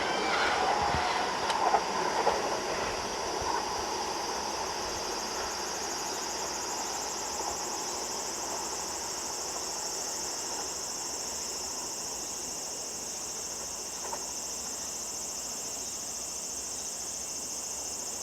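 A train on the Seibu Ikebukuro Line dies away over the first few seconds. It leaves a steady, high-pitched insect chorus that grows a little stronger.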